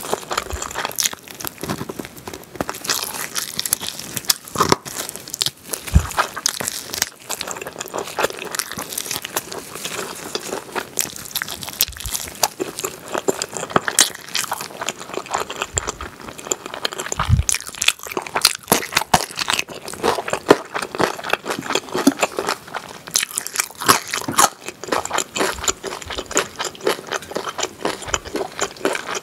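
Close-miked eating sounds of a person gnawing grilled pork back ribs off the bone: chewing, smacking and crunching as a dense, irregular run of sharp wet clicks.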